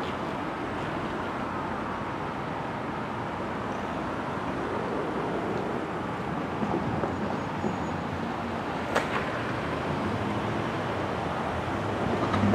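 Commuter train led by a Metro-North cab car rolling slowly into a station, a steady running noise. A sharp click comes about nine seconds in, and a low hum grows stronger near the end as the train draws closer.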